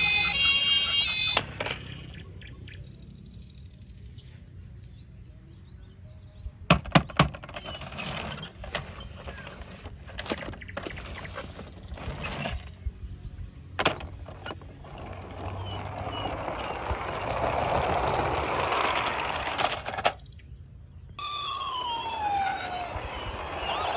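A toy vehicle's electronic siren warbles, stopping about a second and a half in, followed by scattered clicks and knocks of plastic toys being handled, the loudest a quick cluster about seven seconds in. A few seconds of even rattling noise follow, and near the end siren-like falling electronic tones start again.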